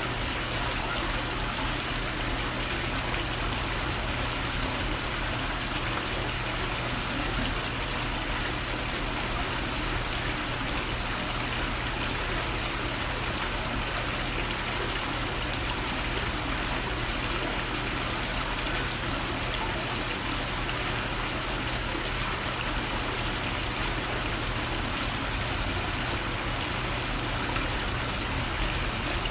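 Steady, even rushing hiss with a low hum underneath, unchanging throughout.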